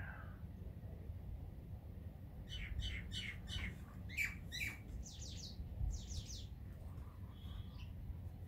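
Small birds calling: a quick run of chirps for about two seconds, then two short bursts of falling notes and a brief whistle near the end.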